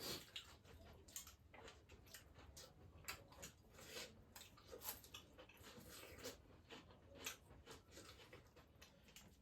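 Faint eating sounds: soft, irregular clicks and smacks of someone chewing a mouthful of chicken biryani.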